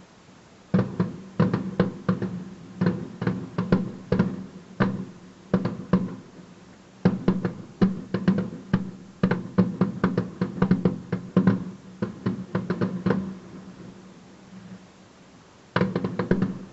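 Fireworks bursting, a dense run of sharp bangs lasting about twelve seconds, then a pause and another short cluster of bangs near the end.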